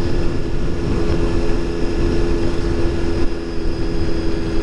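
Honda road motorcycle engine running at a steady cruising speed, with a steady drone, under a low wind rumble on the rider's helmet microphone.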